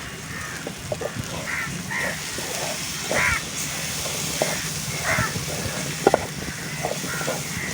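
Crows cawing a dozen or so short times over the steady sizzle of masala frying in a pan.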